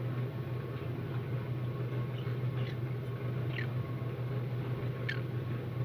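A conure gives three short chirps that fall in pitch, spaced about a second apart, over a steady low hum.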